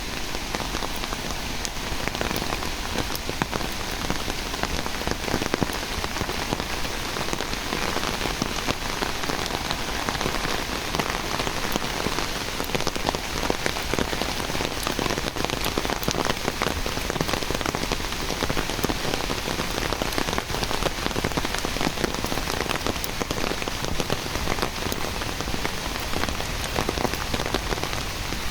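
Steady rain falling on surfaces: an even hiss full of many small drop hits.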